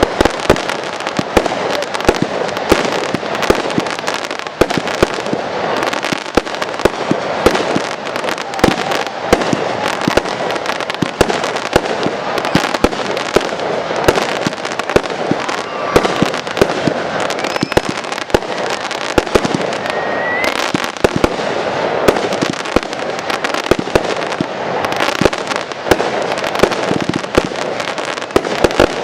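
Fireworks display in full swing: a dense, unbroken barrage of sharp bangs and crackling, many reports a second.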